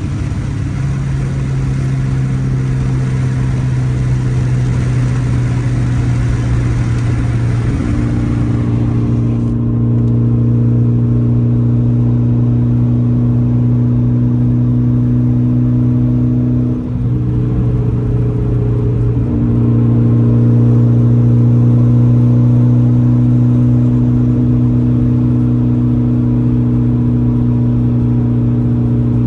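Mitsubishi Lancer Evolution X's turbocharged 2.0-litre four-cylinder with open dump and full titanium exhaust, heard from inside the cabin, droning at a nearly steady pitch while cruising, with a brief dip in sound a little past halfway.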